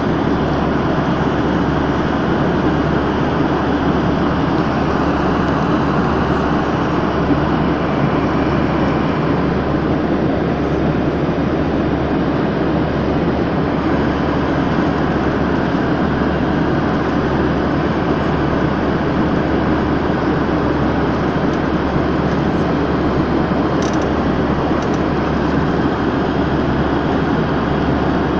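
Steady engine and airflow noise inside an airplane cabin in flight, an even low rumble that does not change.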